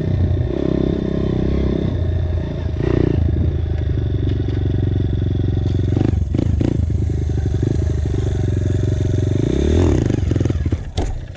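Dirt bike engine running while riding, its pitch shifting with the throttle. The revs climb near the end, then drop off sharply.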